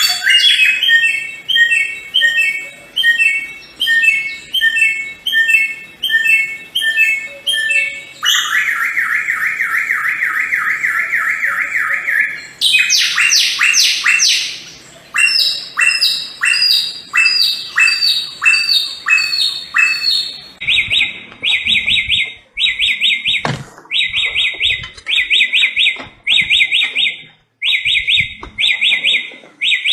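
Samyong songbird singing loudly in a run of repeated high phrases: first a two-note phrase over and over, then a fast buzzy trill, then a series of falling sweeps, and finally short buzzy bursts about once a second. Each song type breaks off abruptly into the next, and a single low knock sounds near the end.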